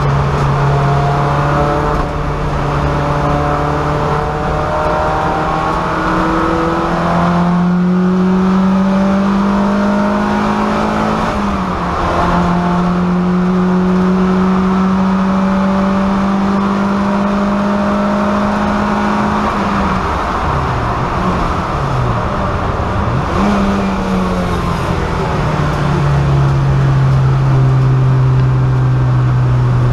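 VW Golf race car's engine at full race pace, heard from inside the stripped cabin. The revs hold and climb in long pulls, with a brief drop in pitch about eleven seconds in, and a run of quick falls and rises in pitch around twenty to twenty-four seconds in as the gears change.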